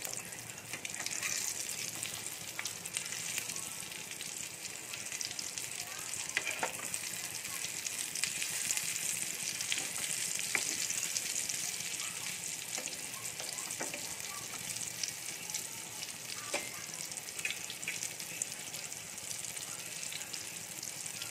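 Oats-coated chicken cutlets shallow-frying in hot mustard oil in a cast-iron pan: a steady sizzle with crackles of spitting oil, and a few clicks as a spatula turns and presses them.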